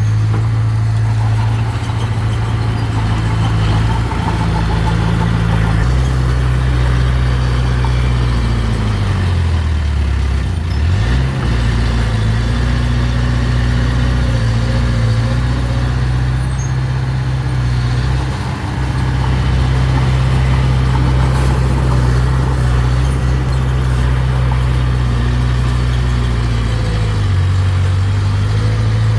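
Mini bulldozer's diesel engine running under load. Its speed rises about six seconds in, sags sharply and recovers about ten seconds in, then drops back near the end.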